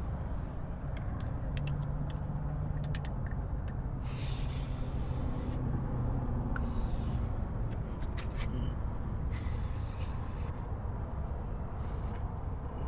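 Air hissing from a truck tire's valve stem as a pressure gauge is pressed on to check the tire pressure: three hisses of about a second each and a shorter one near the end, over a steady low rumble.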